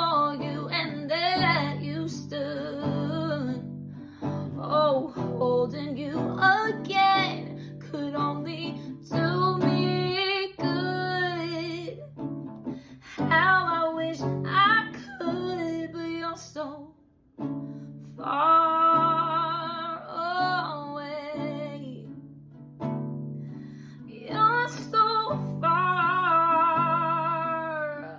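A voice singing a slow song over plucked acoustic guitar, with several long notes held with vibrato.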